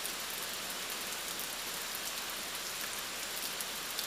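Steady heavy rain falling, a dense even hiss with scattered drops pattering close by.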